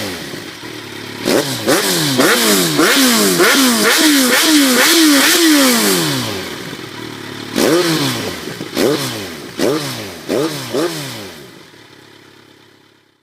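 Kawasaki motorcycle engine through an aftermarket SC-Project exhaust, revved in repeated quick throttle blips. Each blip jumps up and falls back, in two runs with a short lull about seven seconds in, then the sound fades out near the end.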